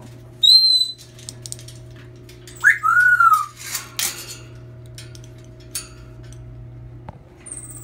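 A pet monkey giving a few short, high whistle-like calls, one arched and louder in the middle, with light clinks of dishes between them.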